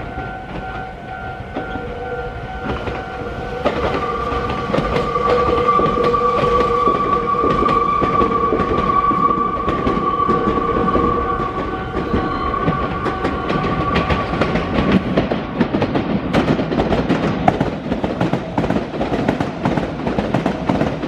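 Meitetsu electric train running through the junction tracks. Steady tones are held for the first part and fade out around two-thirds of the way through. After that comes rapid clattering of wheels over rail joints and points.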